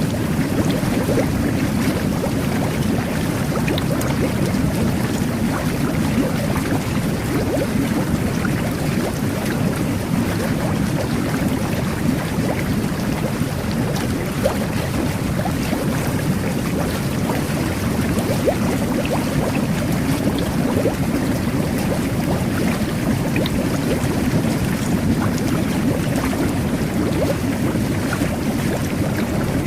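Jet bath running: water bubbling and churning steadily, with a low rumble and small splashing pops throughout.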